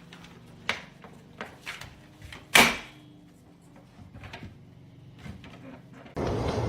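A few scattered knocks and clatters, the loudest about two and a half seconds in, over a faint low hum. A louder, noisier background cuts in suddenly near the end.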